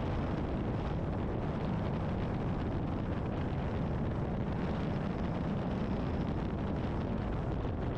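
Steady wind and road rush of a motorcycle ride, picked up by a helmet intercom microphone.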